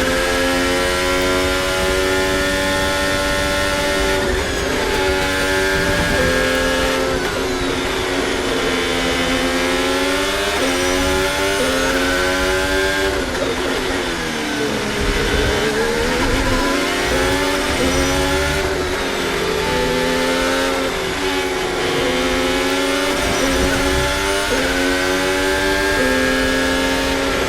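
Formula 1 car's turbocharged hybrid V6 engine at racing speed through a lap. The pitch climbs through the gears with quick drops at each upshift, falls away under braking and downshifts to a low, slow-corner note about halfway through, then climbs again.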